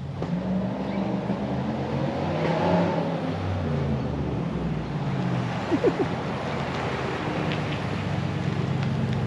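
Chevrolet Silverado 1500 LTZ's 6.2-litre V8 running through a straight-piped exhaust with the centre muffler removed. Its note builds over the first second, then holds steady.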